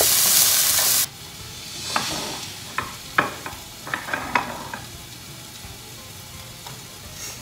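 Chopped ginger, onion and garlic sizzling loudly in a frying pan as a wooden spatula stirs them. About a second in the loud sizzle cuts off abruptly, leaving a much fainter sizzle from the lidded pan with several light knocks and clinks.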